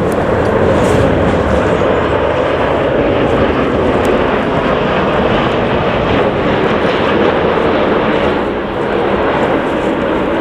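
Jet airliner engines, a loud, steady rushing noise with a slight dip near the end.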